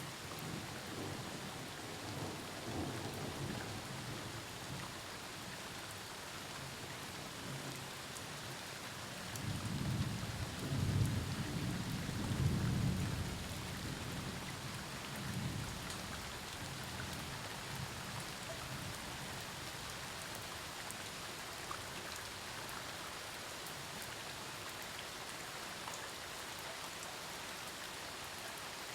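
Steady rain falling during a thunderstorm, with thunder rumbling low. The loudest roll swells about a third of the way in, lasts several seconds and fades into the rain's hiss.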